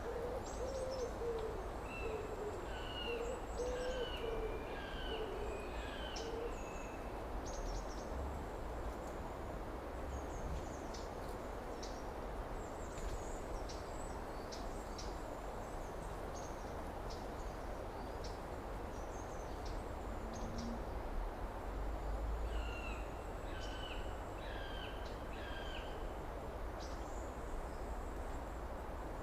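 Outdoor summer night ambience: an owl hooting a series of low notes over the first six seconds, a bird giving a short run of five or so call notes twice, and insects ticking and chirping throughout over a steady background hiss.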